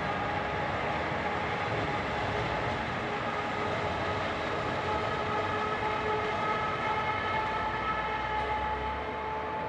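Heavy machinery running steadily with a sustained high-pitched whine over a broad mechanical rumble.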